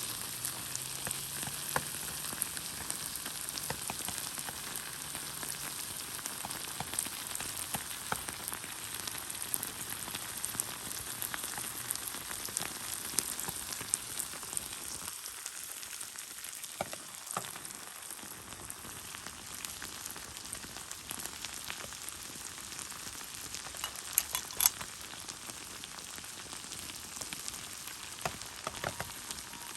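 Pork and kimchi sizzling in a pan over a campfire: a steady sizzle with scattered sharp pops and crackles, the loudest a pair of pops about twenty-four seconds in.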